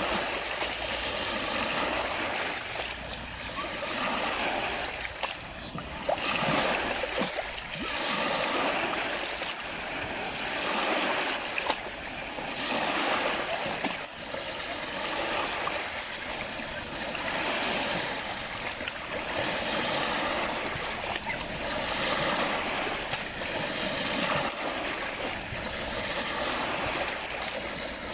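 Small lake waves splashing and lapping, swelling and falling back about every two seconds.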